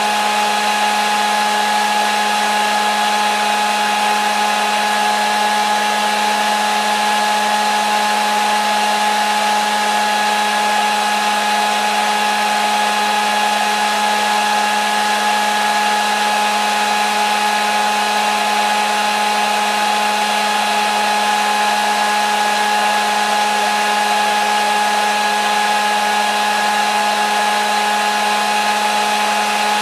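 Hair dryer running steadily: an even rush of blown air over a constant motor hum with several held tones, unchanging throughout.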